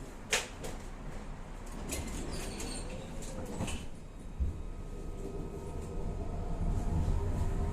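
Inside a Tatra-Yug K1M tram: a sharp click near the start and a few lighter knocks, then the low running rumble of the tram grows steadily louder over the second half.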